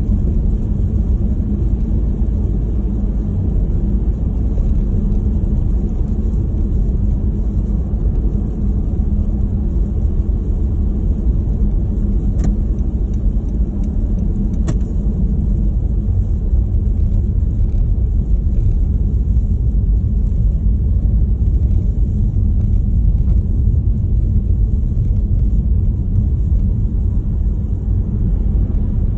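Snowstorm wind buffeting the microphone: a steady, loud, low rumble, with two faint clicks about halfway through.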